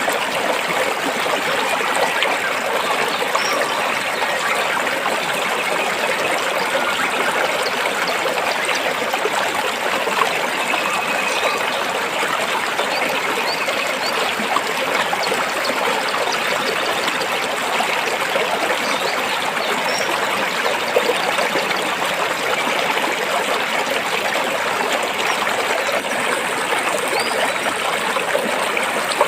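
Shallow stream running and trickling over rocks, a steady, even rush of water with no change in level.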